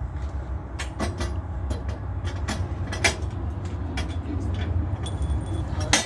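A vehicle engine runs with a steady low rumble, with scattered sharp clanks and knocks; the loudest come about three seconds in and near the end.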